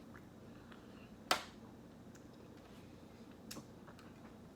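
Small clicks of someone eating ice cream, otherwise quiet: one sharp click about a second in and a softer one later.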